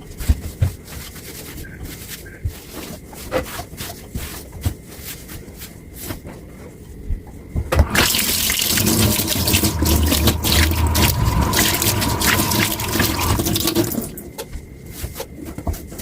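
Dishes and cutlery clinking in a kitchen sink. About eight seconds in, the tap is turned on and water runs into the sink for about six seconds, then stops and the clinking resumes.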